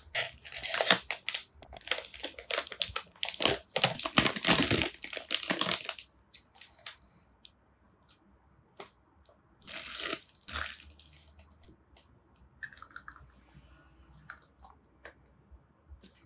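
Blind-box toy packaging being torn and crinkled open for about six seconds. After that come sparse small clicks and rustles as the packaging and plastic pieces are handled, with one short rustle about ten seconds in.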